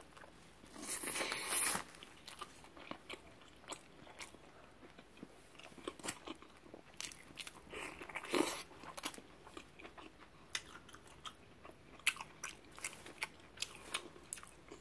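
Close-miked eating of a seafood burrito: a loud bite about a second in, then chewing with many small wet clicks, and a second loud bite at about eight seconds as a fried piece goes into the mouth.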